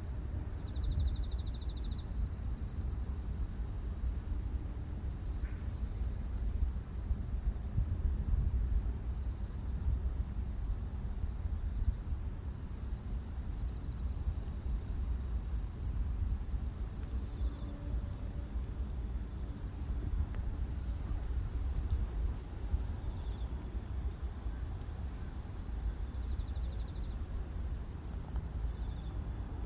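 Crickets calling: one steady, high, unbroken trill alongside a second insect's pulsed chirps repeating about once a second, over a low, steady rumble.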